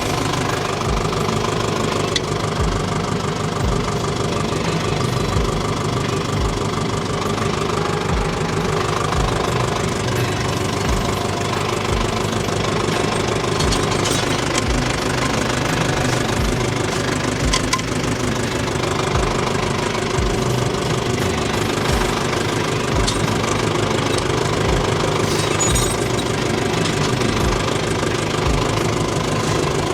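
Tractor engine running steadily, with a regular low chugging throughout.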